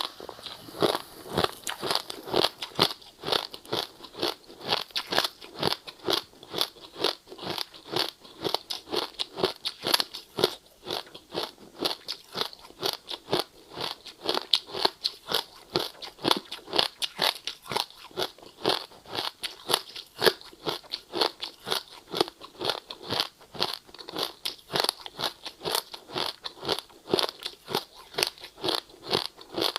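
A person chewing crunchy ice, with sharp, steady crunches about three a second.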